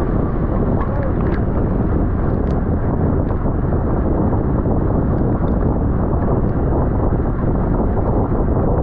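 Steady wind noise buffeting the microphone of a racing bicycle's rider at speed, with a few faint ticks.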